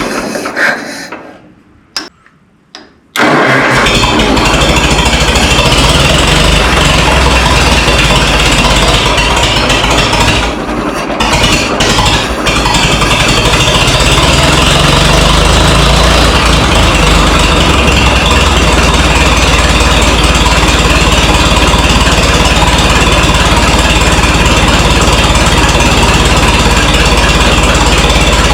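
Minneapolis Moline tractor engine that has sat for five years, running unevenly. It dies away and goes quiet about a second in, comes back running about three seconds in, stumbles briefly around ten seconds in, then runs steadily.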